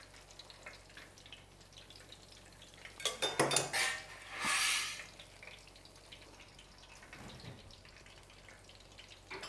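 Battered vegetable pakoras frying in a stainless steel pan of oil with a faint, steady sizzle. A little past three seconds in there are a few sharp metallic clicks, and about a second later a short hiss.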